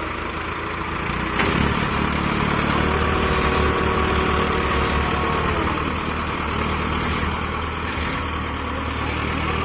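Diesel tractor engine running hard under load while pulling in a tractor tug-of-war. A sharp knock comes about a second and a half in, after which the engine runs louder and steady.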